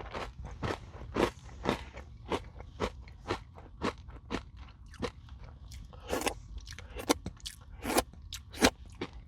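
Close-up chewing of a crunchy Nature Valley granola bar dipped in yogurt: a steady run of sharp crunches, about two a second, with the loudest bites in the last few seconds.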